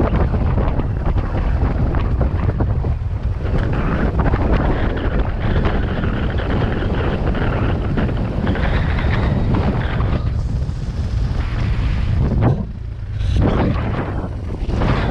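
Wind buffeting the microphone while riding a BMW R1200GS motorcycle, with the engine running underneath. The rumble eases briefly near the end.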